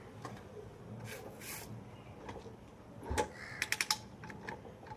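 Clicks and knocks from a motorcycle being readied for a kick start, its engine not yet running: a low thump about three seconds in, then a quick run of about five sharp clicks.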